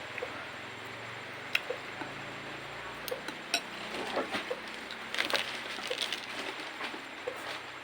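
Spoon clinking against a bowl while eating: a few separate sharp clinks, then a busier run of small clatters in the middle, over a steady background hiss.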